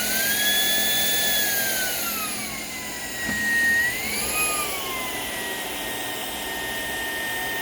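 Shark PowerDetect cordless stick vacuum running, its motor whine rising in pitch and falling back twice as the motor speed changes.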